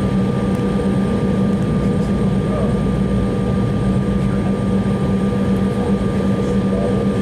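Steady cabin hum of an Embraer E190 airliner with its GE CF34-10E turbofans running at low power, heard from inside the passenger cabin. A constant drone with a few fixed tones over a low rumble.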